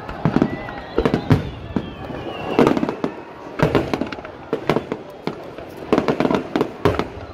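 Aerial firework shells bursting in a dense barrage, a rapid irregular run of bangs, several a second.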